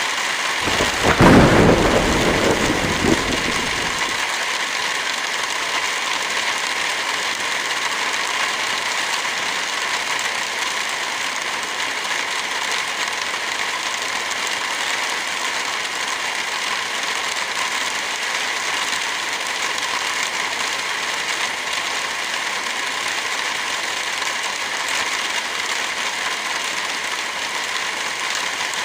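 Heavy rain falling steadily as a dense, even hiss. About half a second in, a low rumble swells and fades away within about four seconds.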